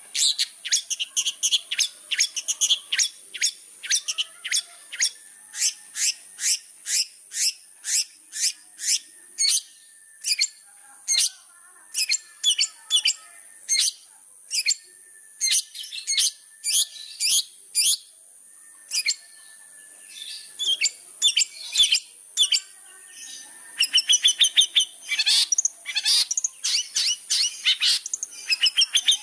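Long-tailed shrike (cendet) singing: a long series of sharp, high chirps repeated about two to three times a second, breaking into a faster, denser chatter near the end, over a steady high hiss.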